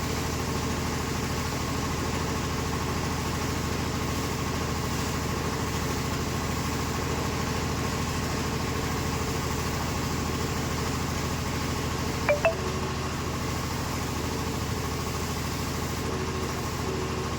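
A motor running steadily with a low, even hum, and two short high chirps in quick succession about twelve seconds in.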